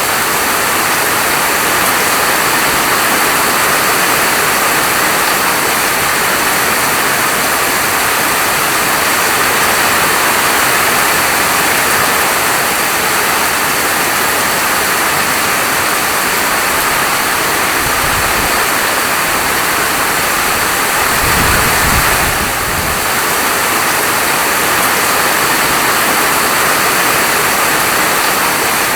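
Steady heavy rain falling: a dense, even hiss. Two brief low rumbles come through about two-thirds of the way in.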